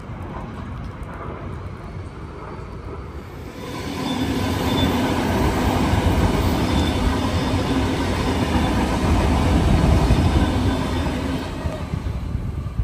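Sydney Trains electric suburban train pulling into the platform: wheel and rail rumble that swells from about four seconds in, with a faint steady whine over it, and eases off near the end as the train slows.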